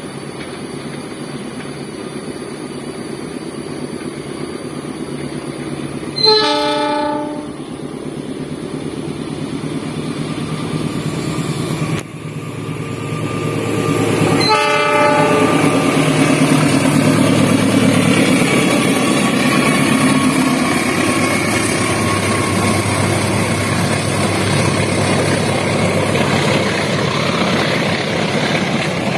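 Diesel locomotive hauling a passenger train up a grade, its engine rumbling louder as it draws near, with two short horn blasts about six and fifteen seconds in. From the second blast on the train passes close: engine and wheels on the rails at their loudest.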